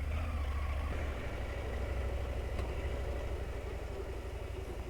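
Husqvarna Norden 901 parallel-twin engine idling steadily, a low hum, a little louder in the first second.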